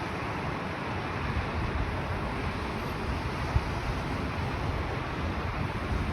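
Steady wind noise, with low gusts buffeting the microphone.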